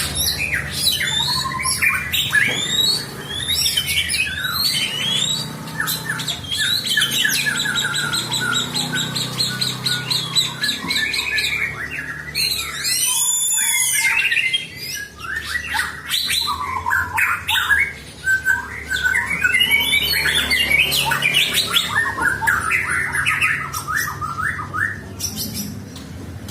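Several songbirds singing at once, with dense overlapping chirps, rapid trills and whistled phrases, among them a white-rumped shama (murai batu) in song.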